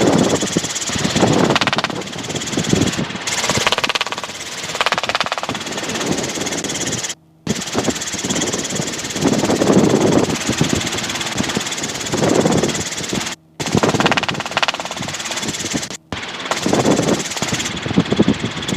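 Robinson R22 helicopter's engine and rotor running in cruise, heard as a steady pulsing drone through the headset intercom, with muffled voice or radio chatter swelling in and out. The sound cuts out briefly three or four times, around 7, 13 and 16 seconds in.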